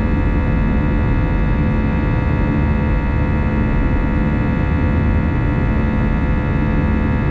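Cabin noise of an Airbus A320-214 climbing after takeoff: a steady roar of airflow and CFM56-5B engines at climb power, with a constant hum of steady tones.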